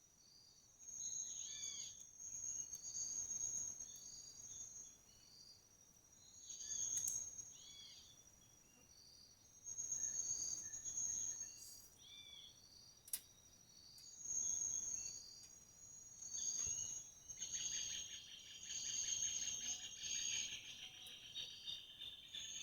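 Steady high insect buzz with repeated bird chirps, broken by short rushes of noise every couple of seconds and one sharp click about 13 seconds in.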